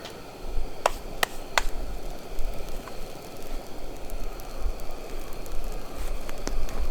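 Wood campfire crackling over a steady hiss, with three sharp pops about a second in.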